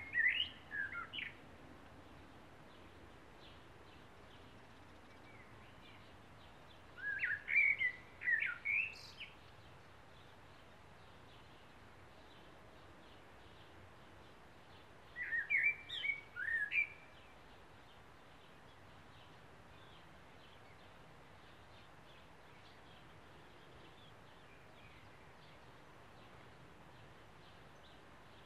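A bird singing three short, quick warbled phrases about eight seconds apart, with faint distant chirps in between.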